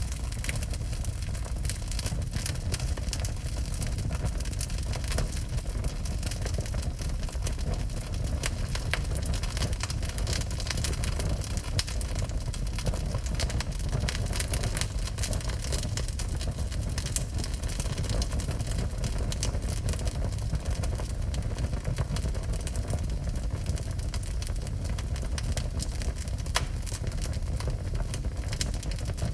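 Wood burning in a fireplace: constant crackling with frequent sharp pops over a low rumble.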